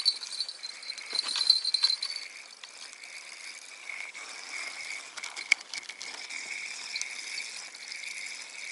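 Small bite-alarm bell on a fishing line jingling and rattling for about two seconds as it is shaken and taken off the line, with one more faint click later. A steady high-pitched drone runs underneath.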